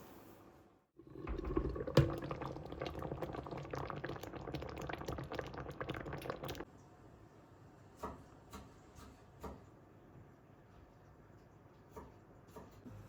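Liquid being poured into a container for about five seconds, with a sharp knock near the start, stopping abruptly. A few light knocks follow.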